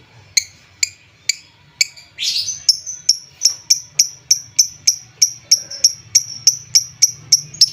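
Lovebird calling: four sharp, separate chirps, then a harsh screech about two seconds in, followed by a fast even run of high, sharp chirps, about three a second.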